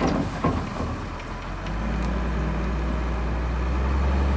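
Wheel loader's diesel engine running, getting louder about a second and a half in and then holding a deep steady drone.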